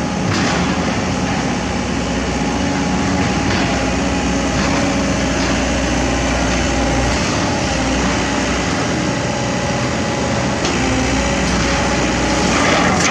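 Excavator's diesel engine running steadily, with a low rumble and a few steady whining tones above it.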